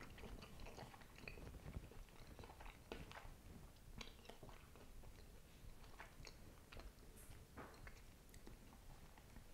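Faint chewing of a bite of a bacon-wrapped jalapeño popper, with soft, irregular crunches from the crispy bacon.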